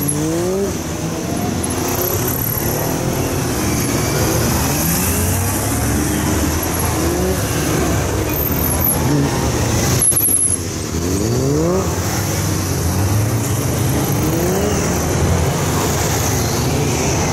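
Motorcycle engine revving up in short throttle bursts and dropping back, over and over, each burst a rising pitch, as the bike is flicked through tight low-speed turns around cones.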